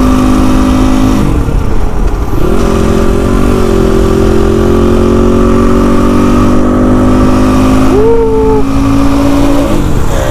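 Motorcycle engine running steadily under way, its pitch dropping and climbing back about a second in and again near the end, as with gear changes. A brief short tone sounds about eight seconds in.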